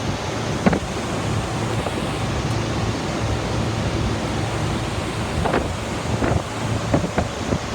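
CLADE refrigeration condensing unit running steadily with its fans at high speed, a continuous whooshing hum; it is running flat out rather than cycling on and off. Wind on the microphone adds a few short gusts.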